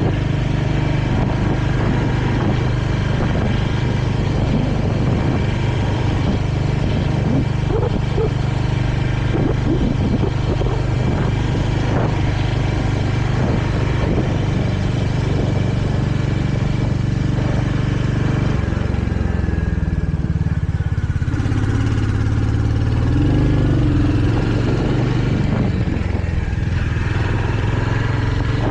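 Royal Enfield Hunter 350's single-cylinder engine running steadily under way. About two-thirds of the way through the engine note drops lower, then rises again.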